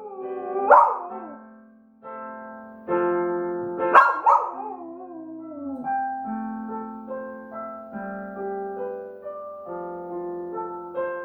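Piano chords playing while a dog howls along twice, loud short howls that slide down in pitch, about a second in and about four seconds in; after that the piano plays on alone.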